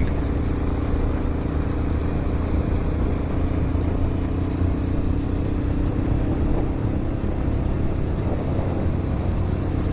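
Honda XR650L's single-cylinder four-stroke engine running at a steady cruising speed, with road and wind noise.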